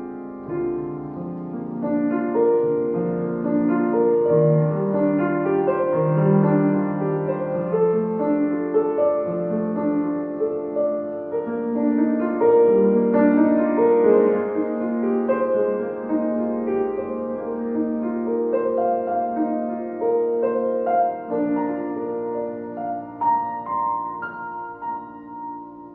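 Soft background piano music: slow sustained chords and melody notes, fading out near the end.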